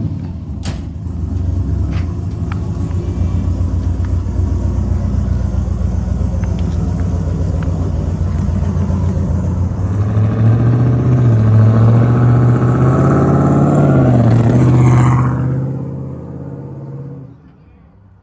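A sports car's engine running steadily, then revving up with rising pitch and pulling away, fading out over the last couple of seconds.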